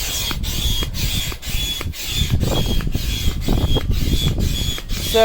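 Rubbing and scraping as a fitting is worked through tight holes in an inflatable kayak. A short high chirp repeats about twice a second over it.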